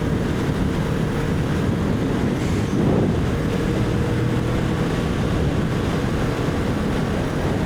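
Wind rushing over the rider's microphone over the steady drone of a Kawasaki Vulcan 650's parallel-twin engine at highway speed, with a brief swell about three seconds in.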